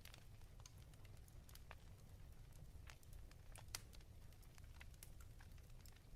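Faint fireplace crackle: scattered, irregular sharp pops over a low steady rumble, one pop louder about three and a half seconds in.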